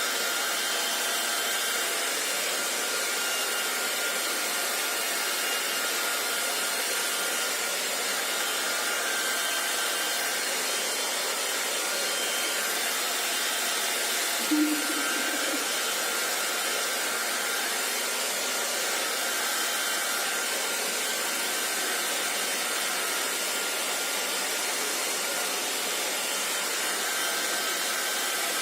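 Hair dryer running steadily with an even blowing hiss. About halfway through there is one brief low blip.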